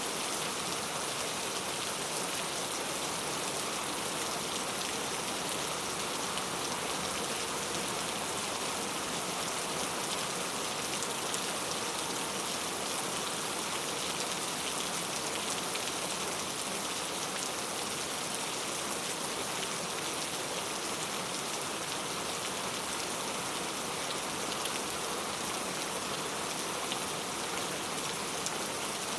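Heavy rain falling steadily, a dense even hiss of drops on hard surfaces with fine individual drop ticks.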